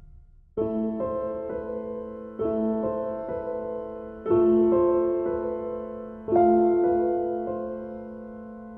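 Soundtrack music: slow piano chords, four of them struck about two seconds apart, each left to ring and fade, the last one sustaining.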